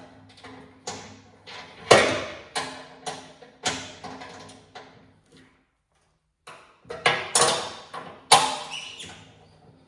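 Metal knocks and clanks of parts and tools, about a dozen irregular strikes that each ring out briefly, with a short pause a little after the middle, as a plow blade attachment is bolted on.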